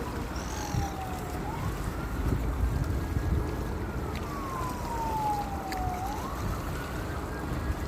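A wailing siren whose pitch slides slowly down for about three seconds, climbs back quickly, holds, and starts sliding down again, over a steady low rush of wind and waves.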